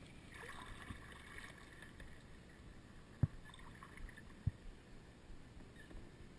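Faint background noise broken by two sharp knocks, about a second and a quarter apart, past the middle.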